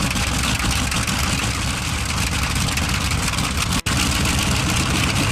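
A large vintage piston engine running steadily with an even low pulsing beat. The sound drops out for an instant nearly four seconds in, then carries on the same.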